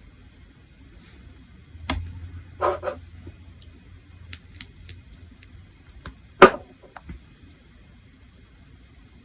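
A few sharp clicks and a short clinking clatter of small hard objects being handled and set down, with the loudest click about six seconds in.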